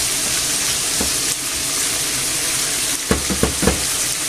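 Pork cubes and red peppers sizzling hard in a frying pan as the white wine boils off, with a steady hiss. Wooden spatulas stir and knock against the pan once about a second in and three or four times in quick succession a little after three seconds.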